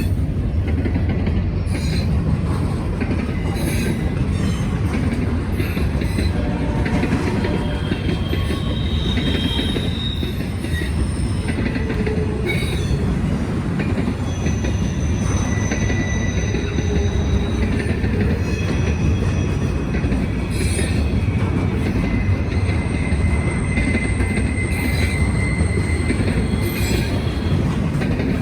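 Norfolk Southern freight train's cars rolling past at speed, a steady rumble of wheels on rail with short, high wheel squeals now and then.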